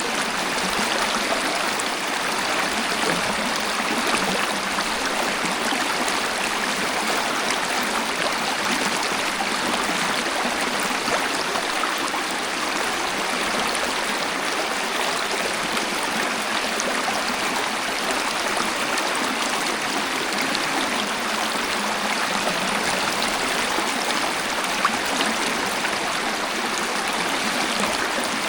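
Waterfall: water rushing and splashing in a steady, even hiss, with little deep rumble.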